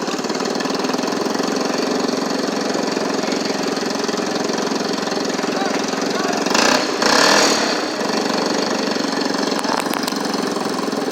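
An engine running steadily at a low, even speed. A louder rush of noise lasting about a second breaks in just past the middle.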